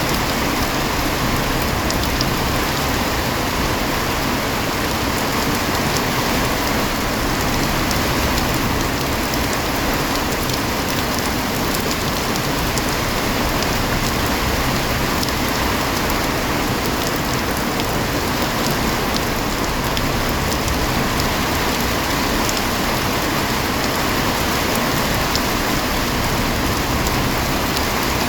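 Heavy rain falling steadily: a dense, even hiss of rain on surfaces with faint scattered drop ticks.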